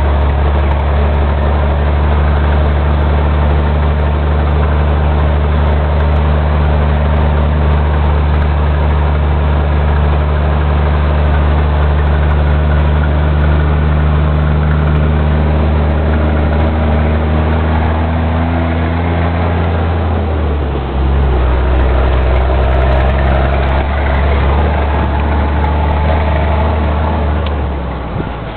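Scania 124 truck's diesel engine running under way, a steady low drone. About twenty seconds in the note falls away briefly and then settles on a new steady note.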